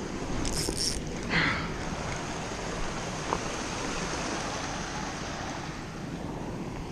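Steady outdoor rushing noise, with a short high hiss about half a second in and a brief higher-pitched sound about a second and a half in.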